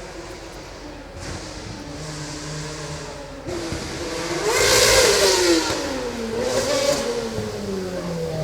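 Formula One car's engine at high revs, coming closer and passing: the pitch climbs and the sound is loudest about five seconds in, then falls as the car moves away, rising briefly once more near seven seconds.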